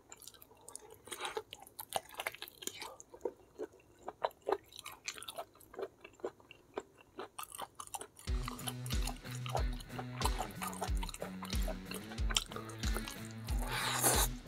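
Close-miked chewing and gnawing on beef trotter skin and tendon, many short irregular wet clicks and smacks. About eight seconds in, background music with a steady bass beat starts under it.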